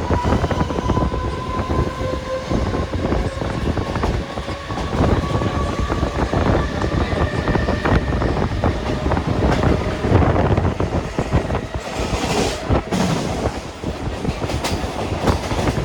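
Train running along the track, its wheels clattering over the rail joints in a steady run of knocks, with a faint steady whine through the first half.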